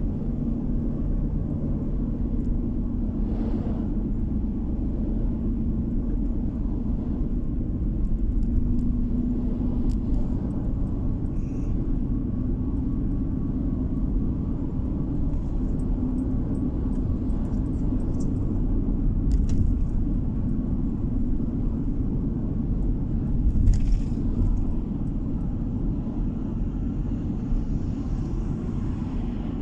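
Steady low rumble of a moving car: engine and tyre road noise, with one brief louder bump about three quarters of the way through.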